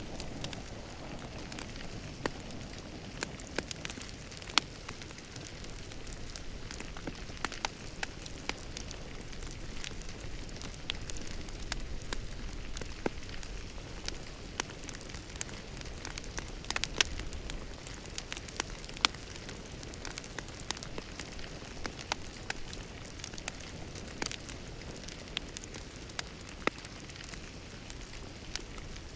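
Wood fire crackling in a fireplace: a steady low rush of burning with irregular sharp pops and snaps.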